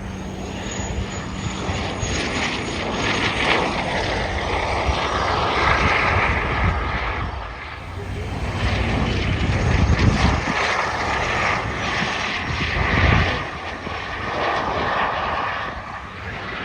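An airplane's engine as it flies past, rising and falling in loudness, with a steady whine running through it.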